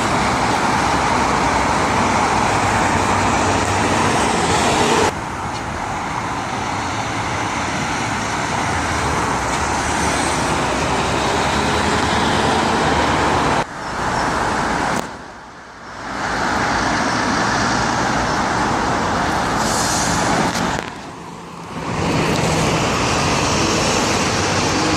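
Road traffic going by, trucks and cars with engine rumble and tyre noise. The sound changes abruptly about five and fourteen seconds in, and dips briefly twice after that.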